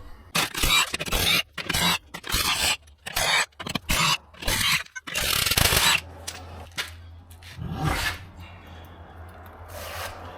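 A run of short, irregular scraping strokes, about nine in six seconds, then a steady low hum with one more scrape about eight seconds in.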